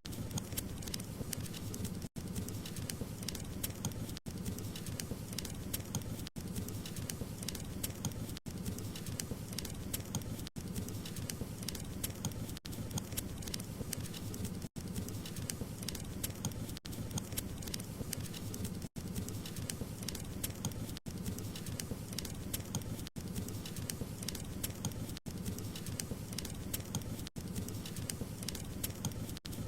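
Wood fire burning in a fireplace, crackling and popping steadily over a low rumble of flame. The sound drops out briefly about every two seconds.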